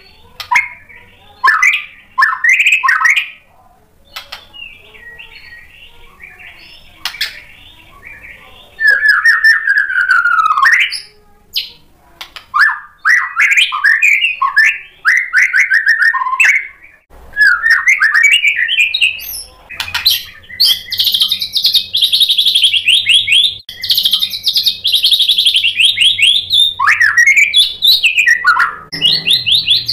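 White-rumped shama singing loudly in varied phrases of whistles, slurred notes and rapid trills, full song packed with learned imitations. After a quieter gap of a few seconds near the start, the song builds to a long, fast run of high trilled notes in the second half.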